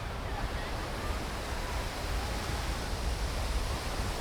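Steady wash of sea surf breaking on a sandy beach, with wind rumbling on the microphone.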